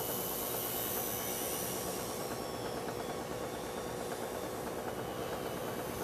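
Blade mCP X BL micro RC helicopter in flight, its brushless motor and rotors giving a faint whine that drifts slightly in pitch and fades about two seconds in, over a steady hiss.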